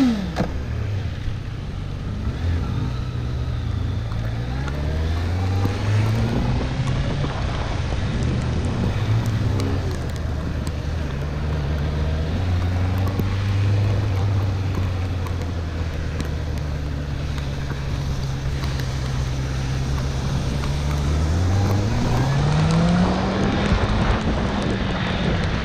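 Honda CB650R's inline-four engine riding through the gears, its pitch climbing and dropping with each shift, then holding steady at cruise. It pulls up once more late on and eases off near the end, over a constant rush of wind noise.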